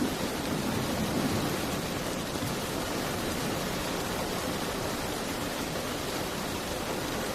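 Steady rain falling in an even, continuous hiss.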